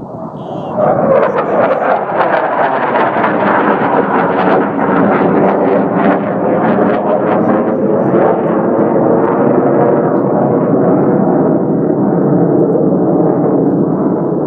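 Jet roar of a Navy F/A-18 flying low past: it swells sharply about a second in and stays loud, its pitch sliding down as the jet goes by.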